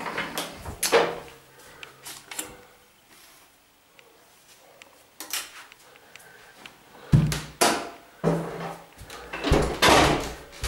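Handling noises: a string of knocks, bumps and rustles as things are moved about and set down, quiet in the middle and loudest from about seven seconds in.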